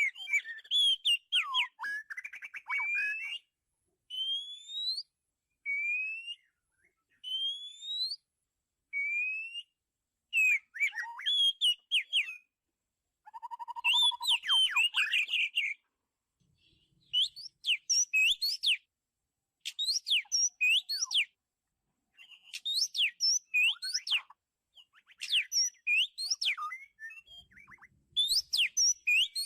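Oriental magpie-robin singing: clear whistled phrases with short pauses between them, several of them single rising slides, mixed with quicker, scratchier chattering notes.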